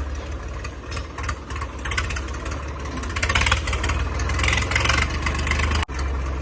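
Tractor diesel engine running steadily, with a short dropout near the end.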